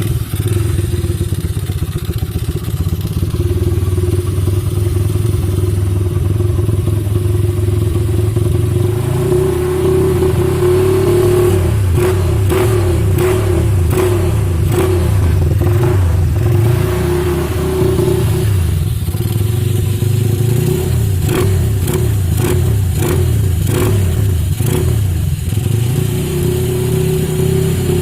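Honda Supra motorcycle's four-stroke single-cylinder engine running through a gutted stock exhaust (baffles removed), loud and deep, held around a steady speed with some revving. From about twelve seconds in, a run of sharp cracks and clicks sits over the engine note.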